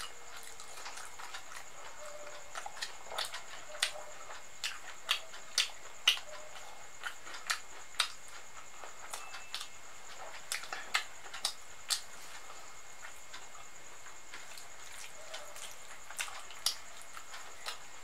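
Wet eating sounds: mouth smacks and clicks from chewing soft khichdi and potato, coming irregularly in small clusters, the loudest about six seconds in, over a steady faint high hiss.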